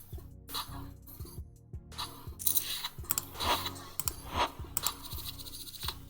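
Clicking and clinking of poker chips from an online poker client's sound effects, heaviest in the middle, over background music with a steady beat.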